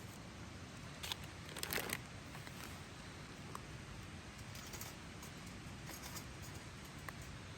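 Faint handling of camp cooking gear and food packaging, with a few short rattles and clicks, the loudest cluster about a second and a half in, over a steady low hiss.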